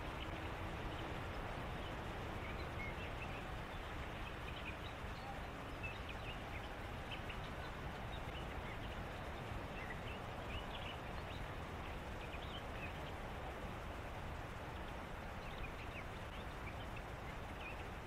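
Evening reed-bed ambience: a steady background hiss with many short, high chirps and ticks from small animals scattered throughout.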